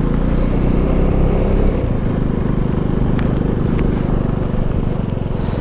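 KTM Duke 390's single-cylinder engine running steadily while the bike is ridden, cutting in suddenly and loud at the start.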